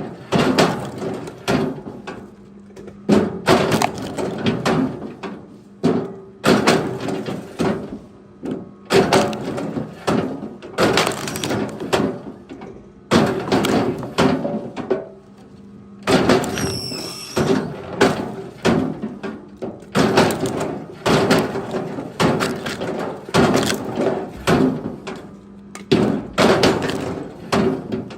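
Repeated wooden knocks and thuds, roughly one a second at uneven intervals, typical of logs and firewood being handled and dropped, over a steady low drone.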